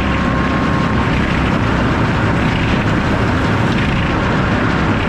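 Sawmill with an F-pattern circular head saw running, a loud, steady mechanical noise with a deep rumble underneath.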